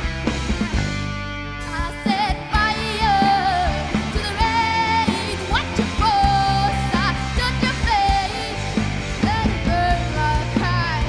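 A live band playing a rock-style pop cover with a lead vocal holding and bending long notes over a steady accompaniment. The music thins briefly about a second in, then comes back in full.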